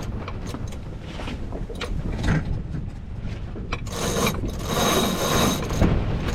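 Sailboat deck hardware being worked during a jibe: a winch ratcheting and sheets running through blocks in bursts as the code zero sail is handled, with scattered clicks over a steady low rumble of wind and water.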